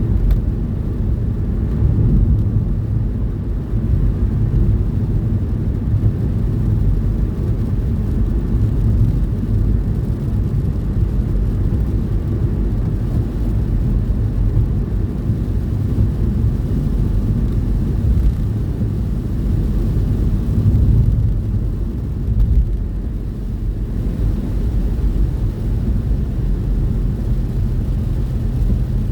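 Steady low rumble of a truck's engine and tyres on the road, heard from inside the cab while driving.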